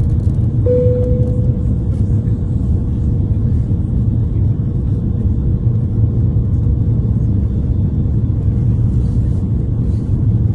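Steady low rumble of engine and airflow noise inside the cabin of an Airbus A330 on approach. A single chime sounds about a second in and fades away.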